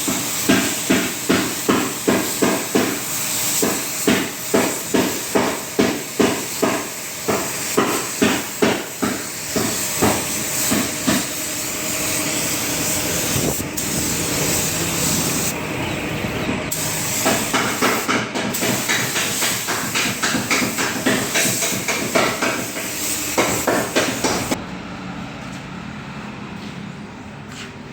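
Metal hammer blows on a car body panel during denting work, about two blows a second in runs, with a steady hiss in the pause between the runs.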